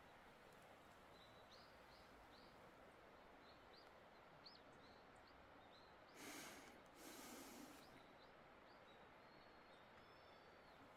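Faint outdoor quiet with a bird chirping repeatedly in short high notes, and two brief rustles a little past the middle.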